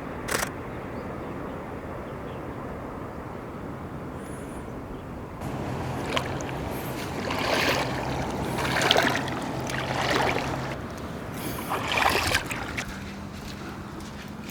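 Sea water washing onto the shore in repeated surges about every second and a half, over a steady hiss of surf, with a faint low hum underneath. A sharp click at the very start.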